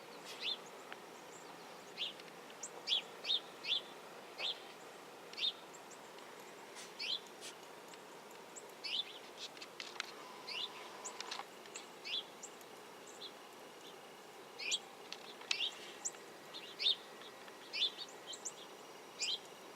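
Small birds chirping: many short, high chirps at irregular intervals, some in quick runs of two or three, over a faint steady hiss.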